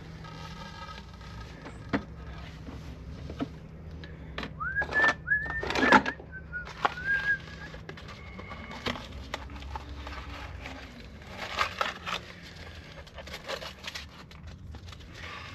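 Hand tools and parts being handled: scattered knocks and clicks, with a cluster of louder knocks and a few short high squeaks between about four and seven seconds in, over a steady low hum.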